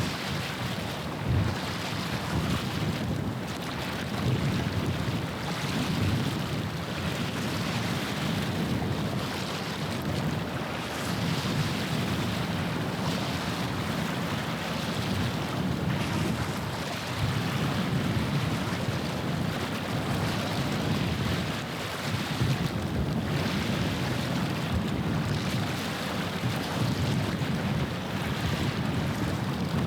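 Wind buffeting the microphone over waves washing on the estuary shore, a steady rushing noise whose low rumble swells and eases every few seconds.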